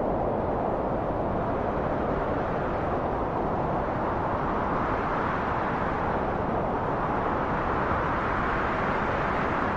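Steady rushing wind with no gusts or breaks, its pitch rising and brightening slightly through the middle.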